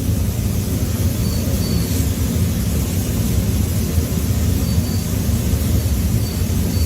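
Steady low rumble with a hiss over it, the engine and road noise of a moving vehicle heard from inside.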